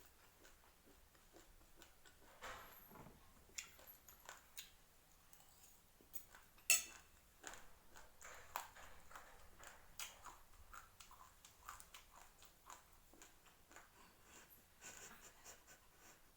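Dry raw rice grains crunching between the teeth as they are chewed: irregular small crunches and clicks, with one louder crack about seven seconds in.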